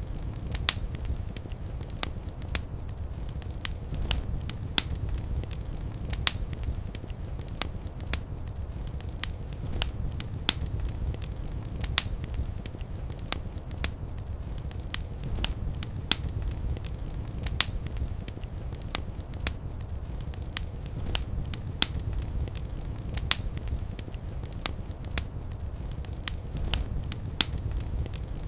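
Wood fire burning in a fireplace: a steady low rumble of flames with irregular sharp crackles and pops, a few a second.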